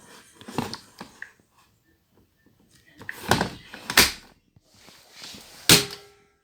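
An appliance door being handled: four separate knocks and clunks, the loudest near the end, followed by a brief ringing tone.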